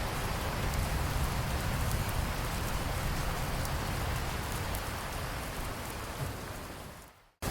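Steady rain falling, an even hiss of drops. Near the end it fades out to a brief moment of silence.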